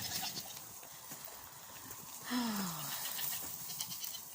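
A goat bleats once, a short call falling in pitch, a little over two seconds in.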